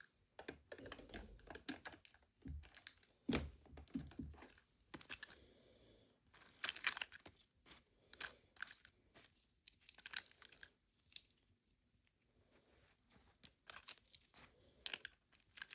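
Faint, irregular clicks, taps and rustles of small plastic miniatures being handled and pushed into a toy mini fridge, with a few soft thuds in the first few seconds.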